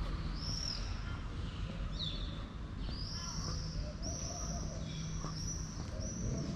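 Birds chirping repeatedly in short high calls, most often in the second half, over a steady low rumble of street noise.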